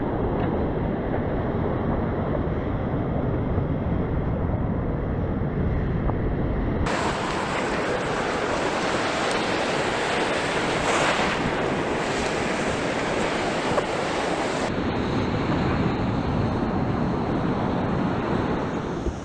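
Ocean surf and wind rushing over an action camera's microphone, a steady, dense noise. Its character changes abruptly about seven seconds in, turning brighter and thinner in the low end, and changes again about fifteen seconds in.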